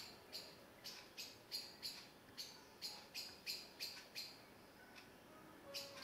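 Spotted flycatcher calling: a series of short, sharp, high chirps, about three a second, pausing about four seconds in and starting again near the end.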